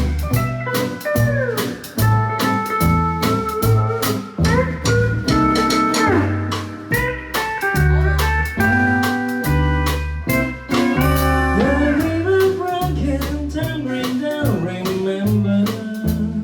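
Live band playing an instrumental intro: pedal steel guitar carrying the melody with gliding, bending notes over electric guitar, walking bass and a drum kit in a relaxed swing.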